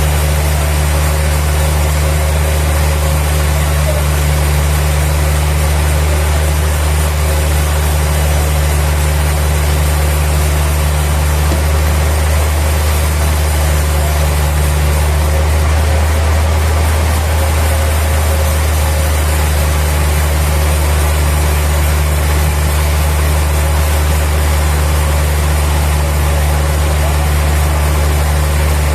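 Sawmill machinery running steadily, a constant deep engine hum.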